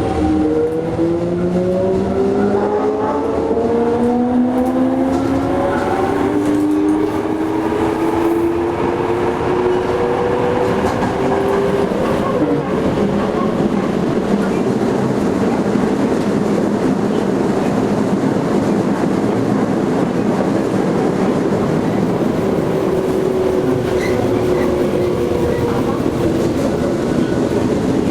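Toei 5300 series electric train heard from inside the car, accelerating: the VVVF inverter and traction motor whine rises in pitch for about the first six seconds, then levels off into steady running noise of wheels on rail in the tunnel.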